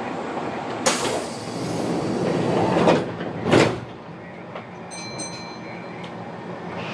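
Inside a Kintetsu commuter train car as it pulls away from a station: steady car noise, a sharp knock about a second in, then a swelling rush with two short loud bursts around three seconds in. The car then settles to quieter running, with brief high squeaks near the end.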